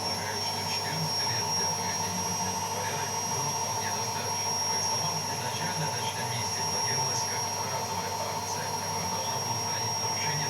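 Hotpoint Ariston washing machine running with a steady high whine over a constant whirring noise.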